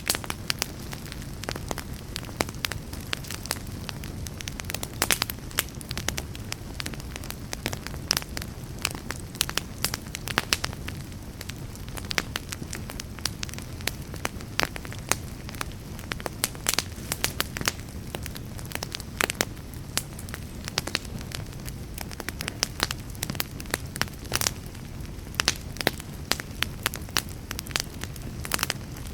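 Wood fire in a fireplace crackling, with irregular sharp pops over a steady low rush.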